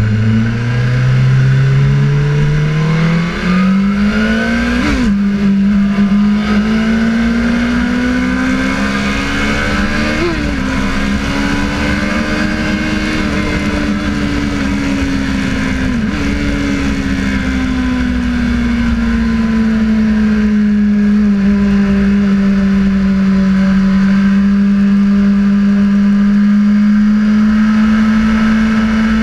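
Sportbike engine accelerating hard, its pitch climbing and dropping briefly at a few quick upshifts in the first half, then holding high revs that slowly rise and fall, over a steady rush of wind noise.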